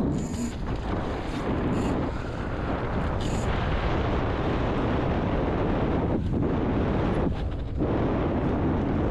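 Wind buffeting the microphone of an onboard camera on a sailing dinghy: a loud, steady rumble that eases briefly twice in the second half, with a few short hissing splashes in the first few seconds.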